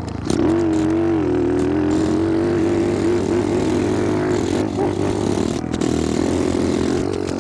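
Small four-stroke single-cylinder pit bike engine held at high revs under load, its pitch wavering with the throttle. The engine drops off briefly right at the start, then picks back up.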